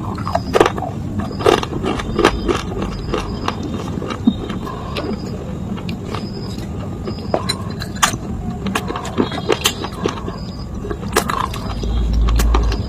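Dry baked clay crunching and cracking as it is crushed: irregular sharp snaps, several a second, over a steady low hum. A heavy low thump comes near the end.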